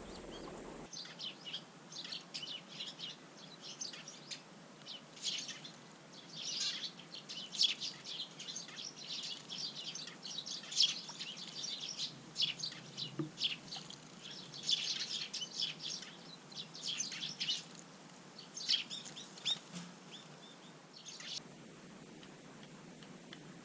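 Small birds chirping: many short, quick high calls, often overlapping, that stop a couple of seconds before the end, over a faint steady hiss.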